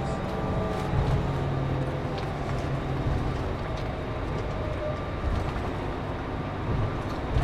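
Scania K410CB coach running: a steady low engine and road drone with a faint pitched hum. Light clicks and rattles sound here and there.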